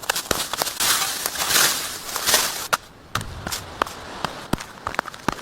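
Dry twigs and leaves crunching and snapping: irregular sharp cracks throughout, a stretch of crunching rustle in the first half, and a few dull thuds in the second half.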